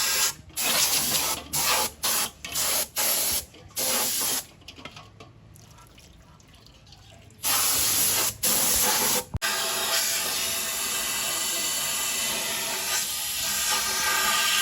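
Pressurised spray hissing in about seven short bursts, then a pause of about three seconds, then a long steady hiss broken twice briefly, typical of a nozzle being triggered on and off while cleaning an engine.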